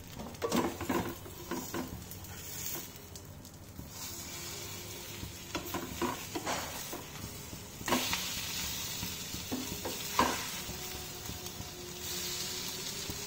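Eggplant rings topped with beaten egg and chopped vegetables sizzle in hot oil in a pan. A wooden spatula scrapes and knocks against the pan several times as the slices are flipped. The sizzle gets louder a couple of times as a raw egg side lands on the hot pan.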